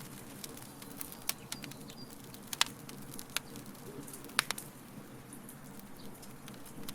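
Wood fire burning in a fire pit: irregular sharp crackles and pops over a low steady rustle. The two loudest pops come about two and a half and four and a half seconds in.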